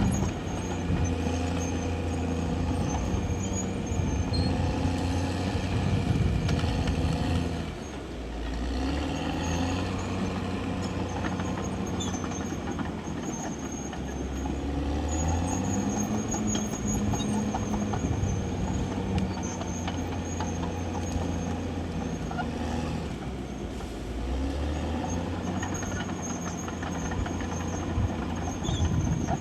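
CAT D6R XL crawler bulldozer's diesel engine working under varying load, its pitch rising and falling as it pushes. A thin high squeal comes and goes over it.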